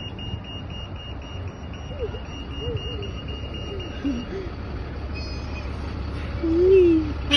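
A vehicle's reversing alarm beeps in a quick, even series of high tones over the low rumble of passing traffic, and stops about four seconds in.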